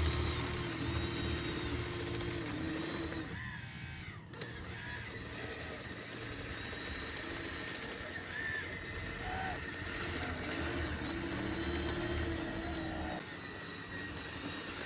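Small electric motors and gearing of radio-controlled construction models whining in starts and stops, the pitch shifting with each movement, over a steady low hum.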